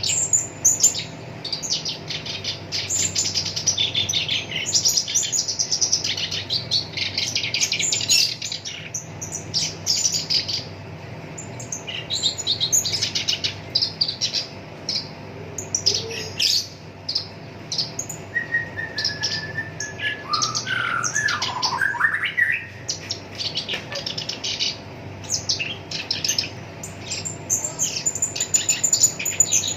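Black-browed reed warbler singing a fast, harsh chattering song in rapid bursts, with rolling fills. About twenty seconds in there is a lower phrase that slides up and down. A faint steady hum lies underneath.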